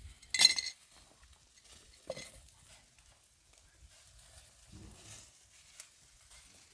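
A sharp clink of hard objects about half a second in, then a softer clink about two seconds in, against a faint background.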